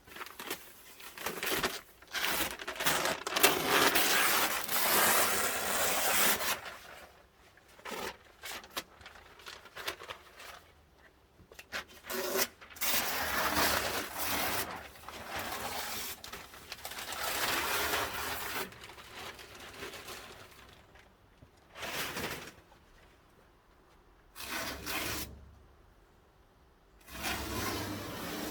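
Air-driven truck bed liner spray gun spraying bed liner coating, a hiss that starts and stops in bursts of one to six seconds as the trigger is pulled and released.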